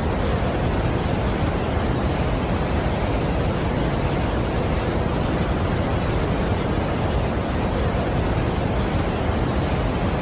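A large waterfall: a steady, even rush of falling water, heaviest in the low end, with no change in level.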